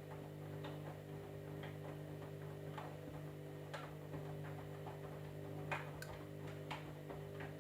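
Candy washing machine running a wash: a steady motor hum with irregular sharp clicks and taps, roughly one or two a second, as the load tumbles in the drum.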